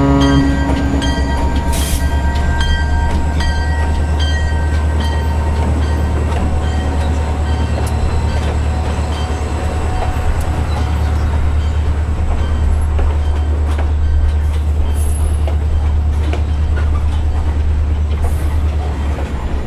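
Sound of a diesel freight train passing: a horn chord cuts off just as it begins, then a steady low engine and wheel rumble with regular rail clicks runs on as the cars roll by.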